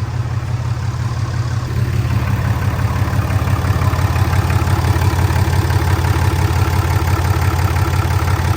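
2016 RAM Cummins 6.7 L inline-six turbodiesel idling steadily with a low, even rumble, run for a few minutes after an oil change to circulate the fresh oil.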